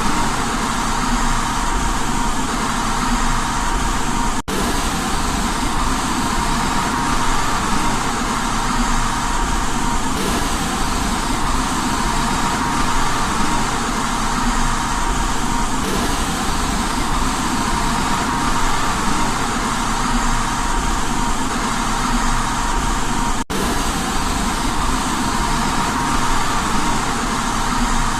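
Steady white noise for baby sleep, a constant even hiss with a faint steady tone mixed in. It drops out for an instant twice, about four seconds in and again about 23 seconds in.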